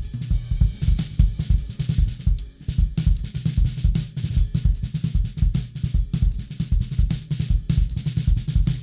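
A recorded drum kit playing a busy, steady groove: kick drum, snare, hi-hat and cymbals hit in quick succession throughout.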